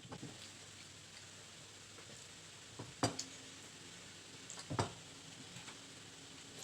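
Two sharp clinks of dishes or cutlery, about three seconds in and again near five seconds, over a faint steady hiss.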